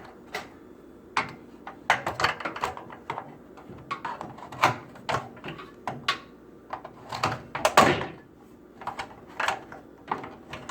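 Irregular plastic clicks, taps and knocks from a Frigidaire microwave door's trim and latches being pried and handled, loudest about eight seconds in.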